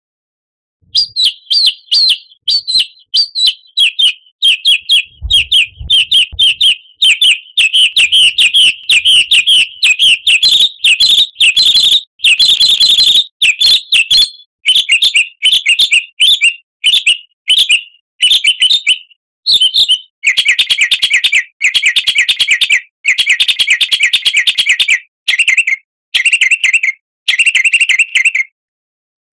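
Recorded songbird singing fast, repeated high chirps in quick runs, starting about a second in. From about two-thirds of the way through, the song changes to harsher, lower rattling phrases.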